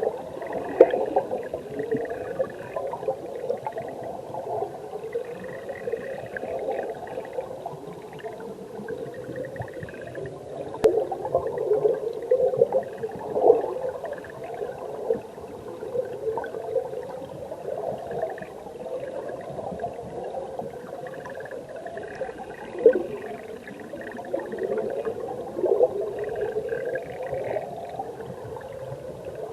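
Mountain stream water bubbling and gurgling, heard from underwater: a continuous muffled churn full of irregular bubble pops.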